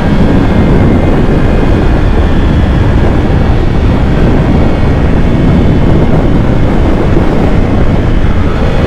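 Loud, steady wind roar on the microphone of a sport motorcycle ridden at speed, with the engine running underneath.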